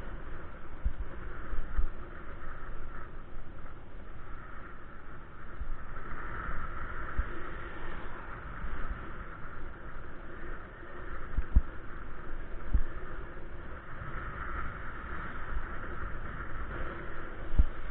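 Steady rushing road and wind noise from riding a bike, with wind buffeting the microphone in short low thumps now and then.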